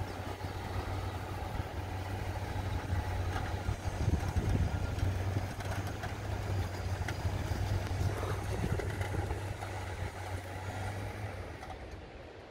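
Off-road vehicle engine running at steady low revs, a low hum under rough outdoor noise, fading away near the end.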